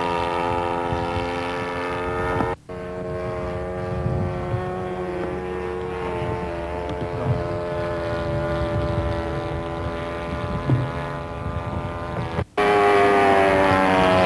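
The 90-size four-stroke engine of a radio-controlled Piper Cherokee model running with a steady drone that shifts slightly in pitch. The sound drops out briefly twice, about two and a half seconds in and near the end, and is louder after the second break.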